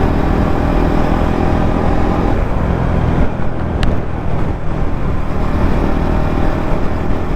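KTM RC 200 motorcycle's single-cylinder engine running at a steady pitch while riding, with road and wind noise on the microphone. After about three seconds the engine tone fades into a noisier rush, and a brief sharp tick sounds near four seconds.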